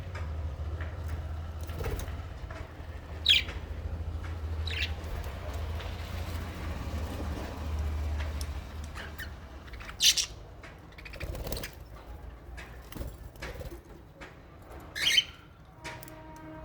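Small parrots (lovebirds and budgies) in an aviary: four short, loud, shrill calls at about three, five and ten seconds in and near the end, with scattered clicks and rustles between them. A low steady hum runs under the first half and then fades.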